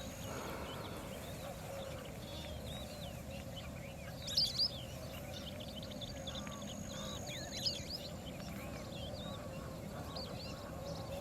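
Birds chirping and peeping in many short high calls, with a few louder calls about four and a half seconds in and again near eight seconds, over a steady low background rumble.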